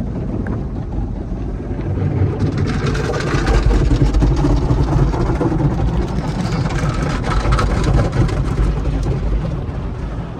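Hodge/AVW automatic car wash tunnel equipment working over a car: a loud rushing noise with a low rumble, full of rapid fine crackle. It swells about two and a half seconds in and eases near the end.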